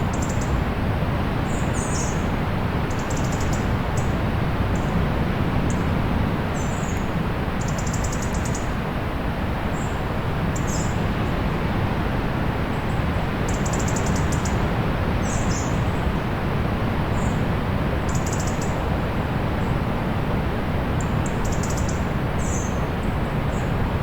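Steady wash of distant sea, with small birds chirping over it in many short, high calls every second or so.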